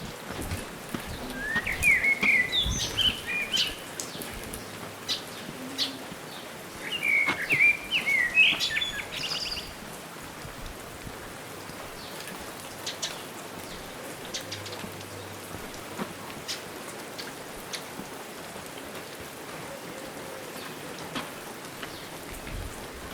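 A small songbird sings two quick, chirping phrases, about two seconds in and again around seven seconds, over a steady background hiss.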